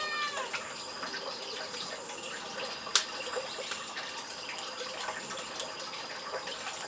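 Steady sound of running water, with one sharp click about three seconds in.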